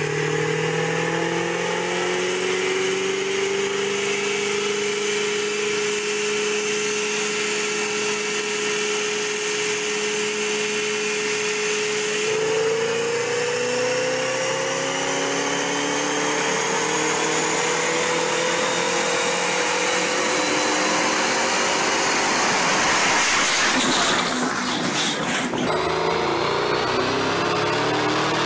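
Ford Mustang engine running at sustained high revs on a chassis dynamometer, a steady whine that holds its pitch for a long stretch and then slowly climbs. Near the end it turns briefly louder and rougher.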